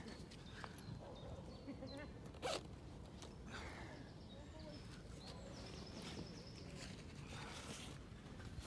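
Scattered handling noises: short rasps, one like a zip being pulled, and a sharp knock about two and a half seconds in.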